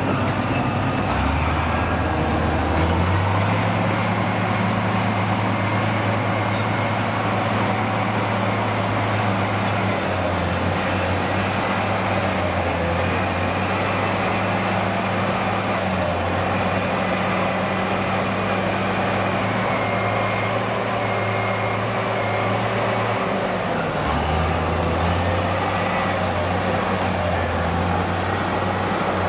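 Heavy diesel engine running loud and steady. Its speed steps up a few seconds in, eases down partway through and shifts again near the end.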